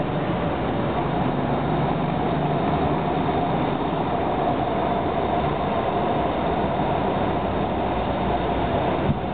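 Siemens-built BTS Skytrain electric train running steadily past close by as it slows into a station. There is a brief knock near the end.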